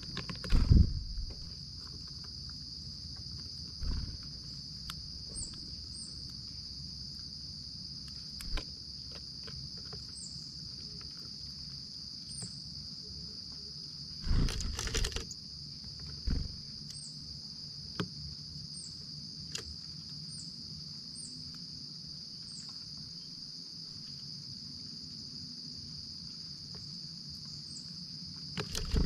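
Steady high-pitched chorus of crickets, broken by a few low thumps and knocks, the loudest about a second in and again around halfway.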